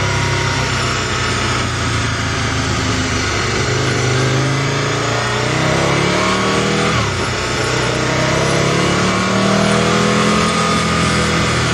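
Aprilia RSV Mille's V-twin engine through a Micron aftermarket exhaust, pulling under acceleration on the move: the revs climb, drop sharply about seven seconds in at a gear change, then climb again.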